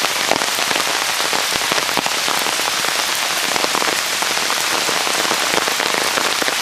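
Heavy rain falling steadily on a waterlogged lawn and standing floodwater: an even, dense hiss made of countless small drop impacts.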